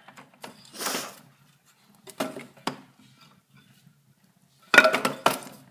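Firewood logs knocking and clattering as they are tossed into a fireplace: two sharp knocks, then a louder burst of wood-and-metal clatter near the end.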